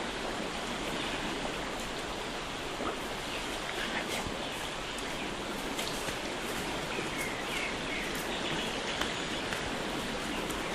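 Steady rushing water noise in a forest, with a few faint bird chirps in the second half.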